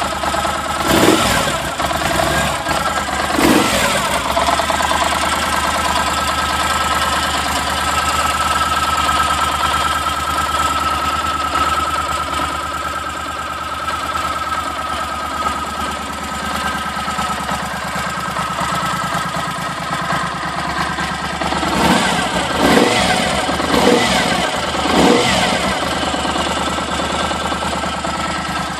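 2010 Moto Guzzi Bellagio's V-twin engine running through its standard exhaust, mostly idling steadily. There are short throttle blips at the start and three more in quick succession near the end.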